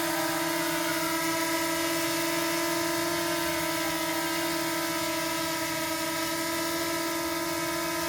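DJI Mini SE drone's propellers running in flight: a steady, even-pitched whine.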